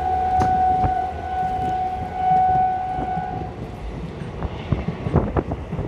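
Train horn held on one steady note, cutting off about three and a half seconds in, over the rumble of the train and irregular knocks of its wheels.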